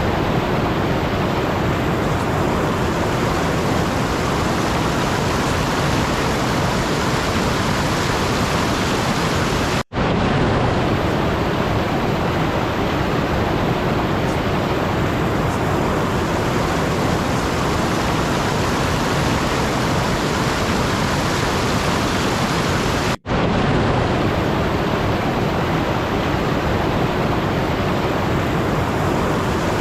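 Steady, even rushing noise like rain or a waterfall, with no speech. It cuts out for a split second twice, about ten seconds in and again about twenty-three seconds in, the marks of a looped noise track.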